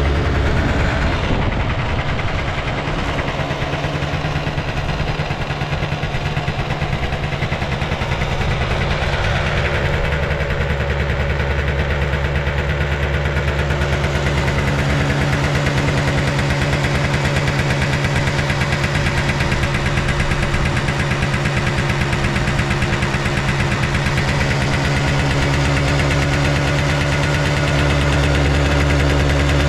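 Honda Live Dio AF35 scooter's 50cc two-stroke engine running steadily at idle, its speed shifting slightly near the start and again near the end. The seller describes the engine as in good condition, with no abnormal noises.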